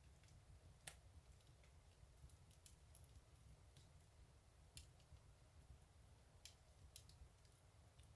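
Fireplace fire crackling very faintly, with sparse, irregular sharp pops, the loudest about a second in, over a low steady hum.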